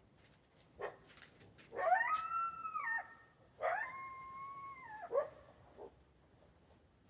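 Coyotes howling: two long howls, each sliding up, holding a steady pitch for a second or so, then dropping away, with a few short yips around them.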